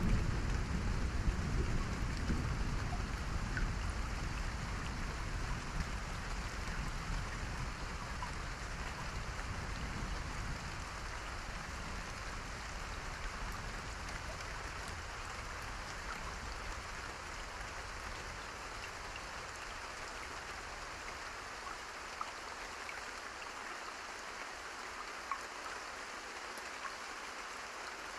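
Steady rain falling, with a low thunder rumble dying away over the first ten seconds or so.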